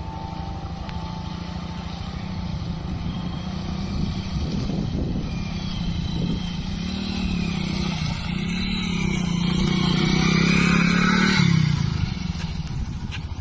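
Motorcycle engine running under way, its pitch wavering up and down. It grows louder toward the end, then its pitch and level drop sharply shortly before the end.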